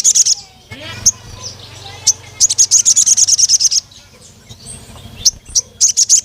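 Crimson sunbird (sogon) calling. It gives a few single sharp, high 'cuit' chirps, then a fast, even trill of high ticking notes lasting about a second and a half, with another trill starting near the end.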